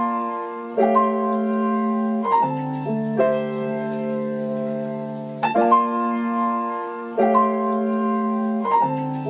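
Instrumental interlude of the song: held keyboard chords on their own, without drums or vocals, changing every one to two seconds.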